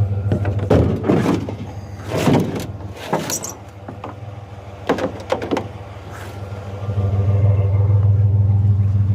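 Truck engine idling with a steady low hum. In the middle it fades back while a series of sharp metal clanks and knocks sounds as a piece of scrap metal is handled and loaded into the truck.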